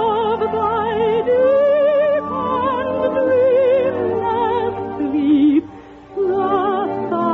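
Operatic singing with strong vibrato over musical accompaniment, from an old radio broadcast recording with a thin, narrow sound. The music breaks off briefly about six seconds in, then resumes.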